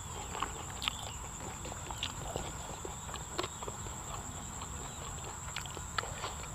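A man chewing raw beef laab, with soft wet mouth clicks and smacks scattered irregularly throughout, over a steady high-pitched whine in the background.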